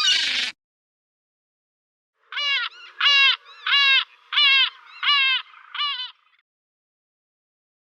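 A bird calling six times in quick succession, about one and a half calls a second, each a short harsh note that arches and falls in pitch. A brief noisy burst opens the sound.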